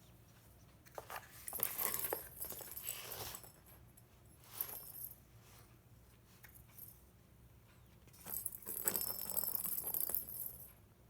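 A cat playing with a toy: two long bursts of jingling and rustling with a short one between them.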